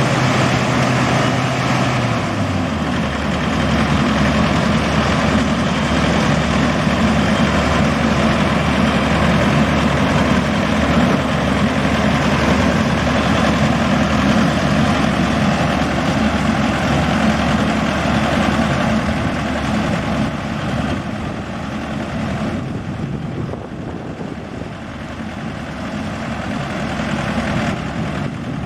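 Combine harvester's engine running steadily, with the drone of the machine at work. Its low note drops a little over two seconds in, and the sound eases slightly in level near the end.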